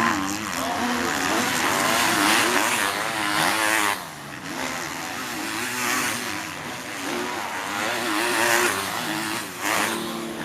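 Several motocross bikes' engines revving hard, their pitch rising and falling again and again as they accelerate and shift. The sound drops briefly about four seconds in and again near the end.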